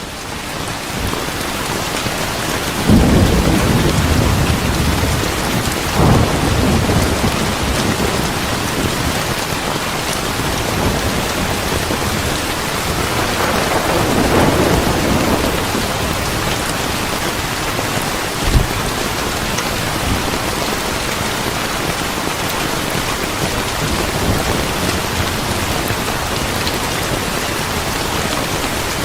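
Steady rain falling, with low rumbles of thunder swelling about three and six seconds in and a longer one around the middle, and a short sharp clap a little later.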